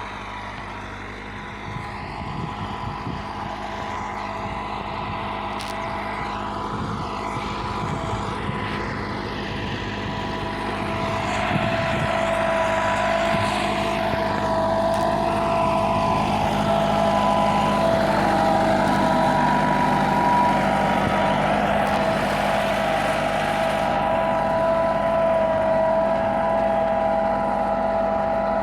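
Massey Ferguson 375 tractor's diesel engine running steadily under load while pulling a 13-tine heavy-spring cultivator through the soil. It gets louder about eleven seconds in and stays there.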